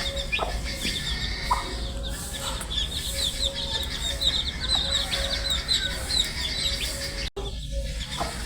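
A brood of baby chicks peeping continuously: many overlapping, high, short downward-slurred chirps. The sound cuts out for a split second about seven seconds in, like an edit in the recording.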